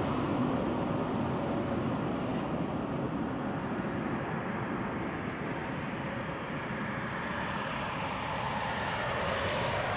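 Jet engine noise of an Airbus A320-214 with CFM56-5B turbofans, a steady rumble and hiss that slowly fades, then swells a little near the end.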